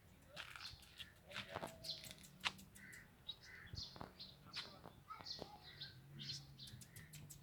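Small birds chirping: many short, high calls scattered throughout, with a few sharp clicks among them.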